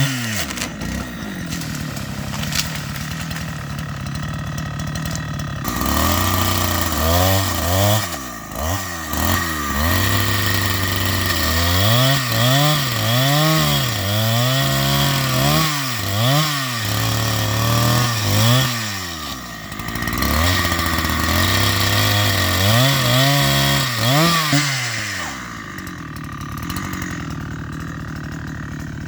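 Chainsaw cutting chinaberry wood: the engine revs up and drops again and again as the chain bites into the wood, then settles to a lower idle near the end.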